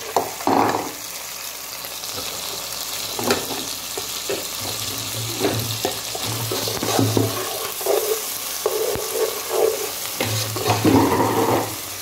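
Chopped onions, with freshly added tomato, garlic and green chilli, frying and sizzling in a pan, while a spatula scrapes and stirs through them again and again.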